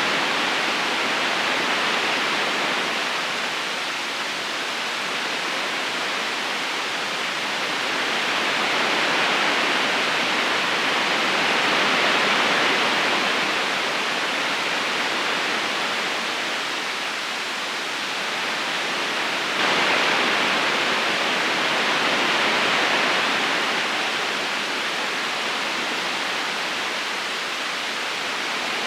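River current rushing steadily over stones, an even wash of water noise that slowly swells and eases every few seconds, with a small sudden rise in level about twenty seconds in.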